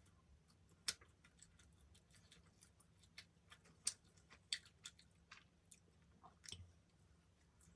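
Close-up eating sounds: quiet chewing with irregular wet mouth clicks and smacks, a few of them sharper.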